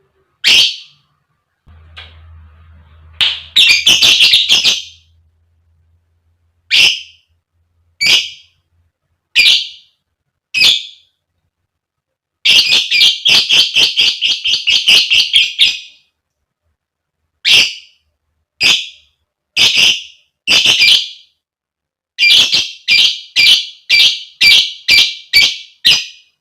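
A lovebird calling in shrill, sharp chirps. Single calls come about a second apart. About twelve seconds in there is a fast run of roughly four chirps a second lasting over three seconds, and near the end another quick series: the chattering song lovebird keepers call ngekek.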